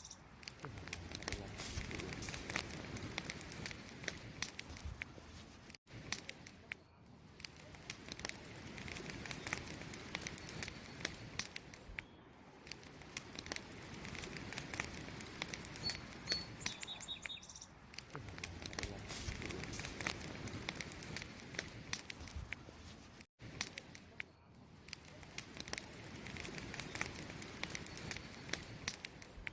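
A wood campfire crackling with a dense run of small sharp pops, over the steady chirping of crickets. The sound cuts out for an instant twice, about six seconds in and near twenty-three seconds.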